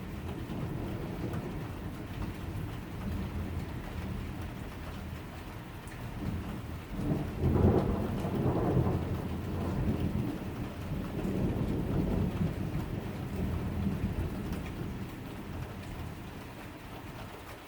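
Steady rain in a summer thunderstorm, with a long roll of thunder that swells to its loudest about halfway through, rumbles on for several seconds and then fades.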